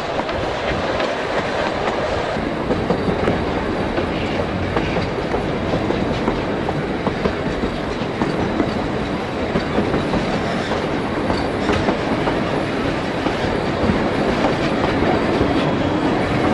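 Narrow-gauge steam train running along the line, heard from on board at an open carriage window: a steady rumble of wheels on rail with irregular clacking over the rail joints.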